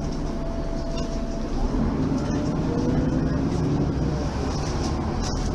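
Mercedes-Benz Citaro facelift city bus running, its diesel engine and automatic gearbox giving a steady drone with a thin whining tone that rises in pitch about two seconds in.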